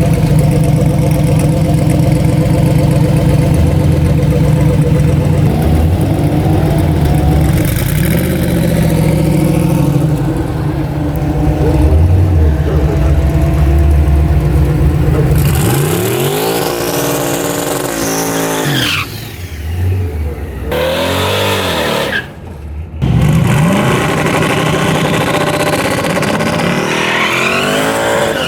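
Drag-race car engines: a loud steady engine note for about the first half, then engines revving up in repeated rising sweeps as cars accelerate hard.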